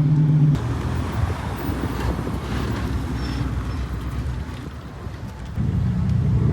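Car engines and exhaust with wind on the microphone: a steady engine note cuts off about half a second in, a rough, lower exhaust rumble follows and fades for a moment, then another engine note picks up near the end.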